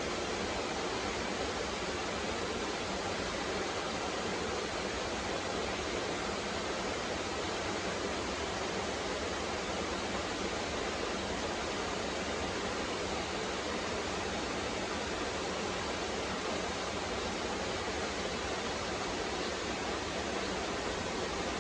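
High waterfall: water falling and splashing in a steady, unbroken rush.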